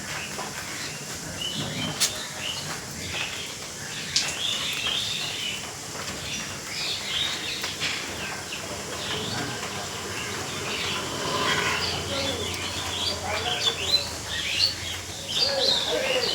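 Birds chirping in many short, repeated calls over a steady hiss of rain, the chirping busier in the second half.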